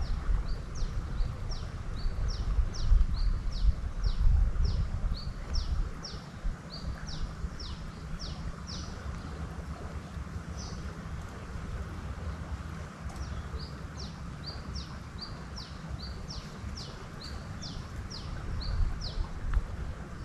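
A bird calling a rapid series of short, high notes that each slide downward, about two a second, in two runs with a pause of a few seconds between them. Wind rumbles on the microphone underneath, most in the first few seconds.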